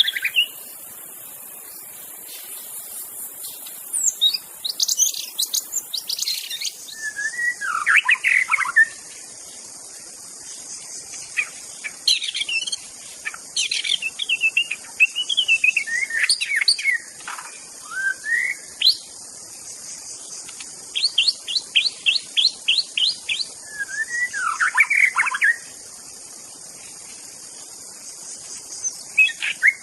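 White-rumped shama singing in varied, whistled phrases separated by short pauses, with a run of about ten quick repeated notes a little past the middle. A steady high-pitched drone runs behind the song.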